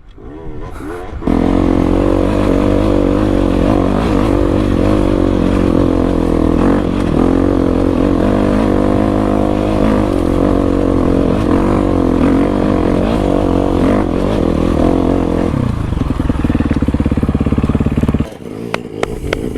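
Dirt bike engine running hard under load, its pitch wavering as it pulls up a climb in one gear. About 16 s in it drops to a lower, pulsing note, then cuts off suddenly near the end.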